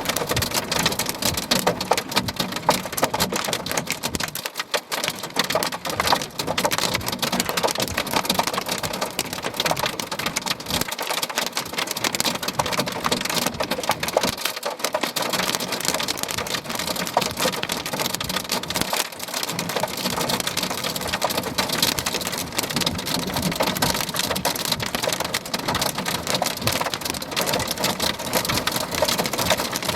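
Heavy thunderstorm rain pelting down, a dense, steady patter of drops striking a hard surface.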